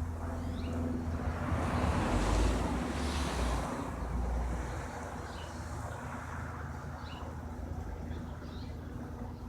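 Single-engine Cessna light aircraft droning overhead, a steady low hum that swells to its loudest about two to three seconds in and then eases off, with wind on the microphone and faint bird chirps.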